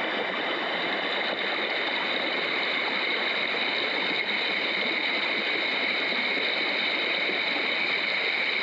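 Mountain creek water running steadily, an even, unbroken splashing rush.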